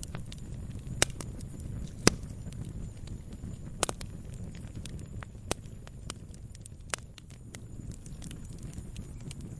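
Wood campfire crackling: irregular sharp pops and snaps of burning wood over a low steady rumble of the flames, with the loudest pop about two seconds in.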